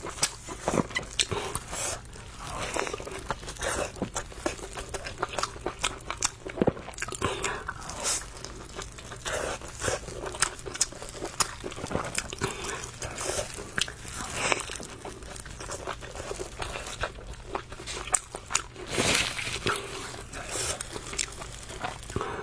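Close-miked eating of spicy rice noodles: many wet clicks and crunches of chewing and biting, with a few longer noisy slurps.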